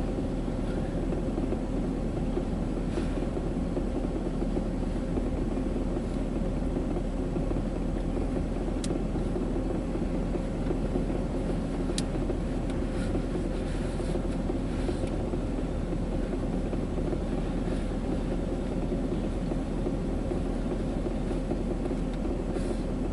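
Steady low mechanical rumble with a faint constant hum, unchanging throughout, broken only by two brief sharp ticks near the middle.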